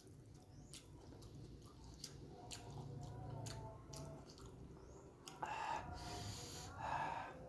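Close-miked chewing: faint wet mouth clicks and smacks as a man eats rice and fried tempeh with sambal. There are two louder audible breaths, one about five and a half seconds in and one near the end.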